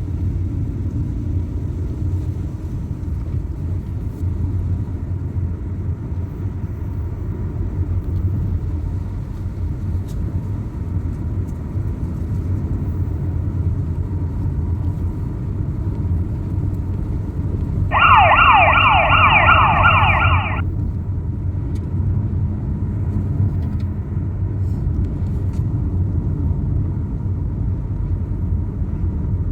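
A car driving, with a steady low rumble of engine and road noise. About eighteen seconds in, a fire engine's siren gives a short burst of rapid, rising yelps lasting a couple of seconds; it starts and stops abruptly and is the loudest sound.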